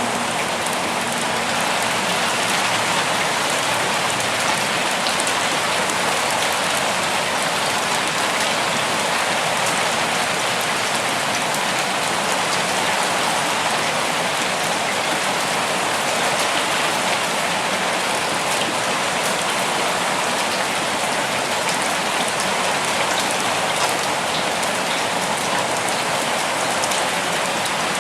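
Steady rain falling: an even, unbroken hiss with many small drop ticks scattered through it.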